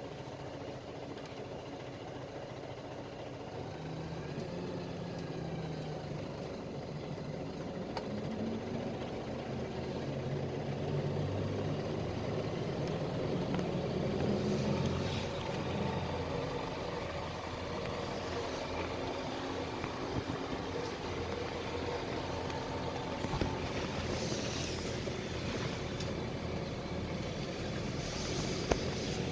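PAZ-320405-04 Vector Next bus's diesel engine running as the bus drives, its pitch rising and falling a few times with the gear changes, over steady road noise.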